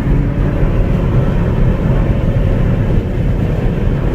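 Steady low rumble of car engines running, with no distinct revs or single events.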